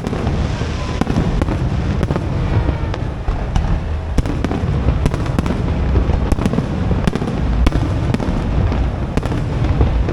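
Aerial fireworks display going off in a dense barrage: many sharp cracks and bangs over a continuous deep rumble of shell bursts, with faint falling whistles near the start.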